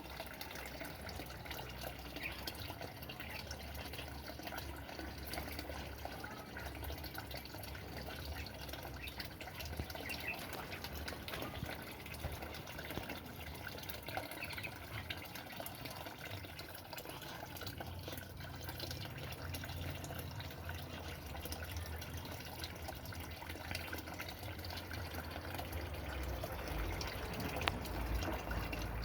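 Water running and trickling steadily, with a low rumble that grows near the end.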